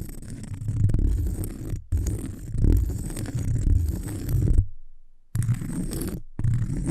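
Close-miked scratching on cork, a dense, rough, low rustling broken by three sudden short silences.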